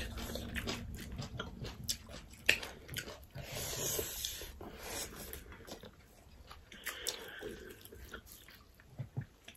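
Close-up eating sounds: chewing and lip smacks with scattered soft clicks, at a low level, as rice and grilled pork are eaten by hand.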